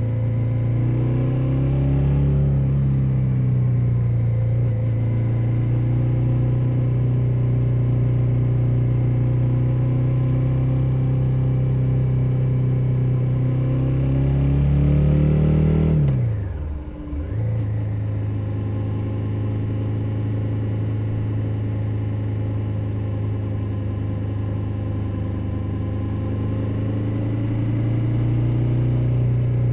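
2021 Suzuki SV650's 645 cc V-twin engine running under way, picked up from under the seat. The engine note holds steady, climbs a little, then drops sharply in pitch and level for a moment about sixteen seconds in before carrying on steadily at a slightly lower pitch.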